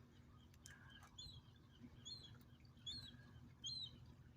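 Faint, high peeping calls of a young gull, short curved chirps repeating about every 0.8 s.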